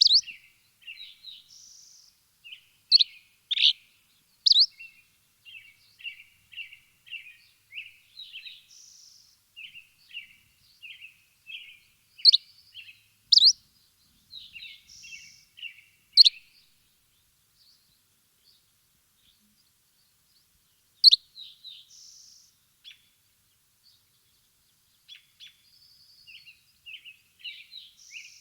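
Birds chirping: runs of short high chirps with a louder, sharp note now and then, pausing for a few seconds a little past the middle before starting up again.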